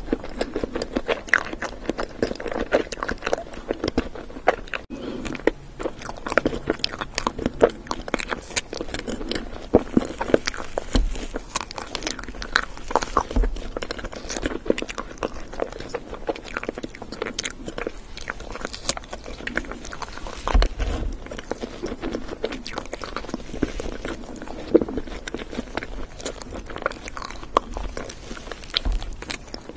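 Close-miked chewing of strawberry crepe cake with cream: dense, irregular mouth clicks and smacks throughout, with a few low thuds.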